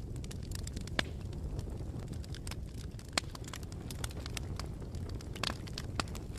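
Wood campfire burning: a steady low rumble with irregular sharp crackles and pops, a few louder snaps scattered through.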